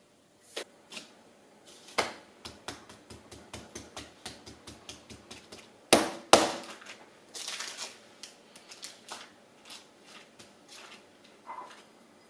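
Kitchen utensils clicking and knocking: a run of quick, even taps, about five a second, then two loud knocks about halfway through, followed by a short rustle and scattered taps.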